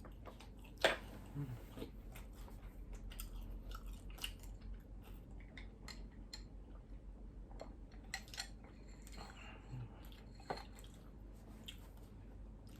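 Close-miked chewing of sausage, with many small wet mouth clicks and smacks throughout. A sharp click about a second in and another about ten seconds in stand out.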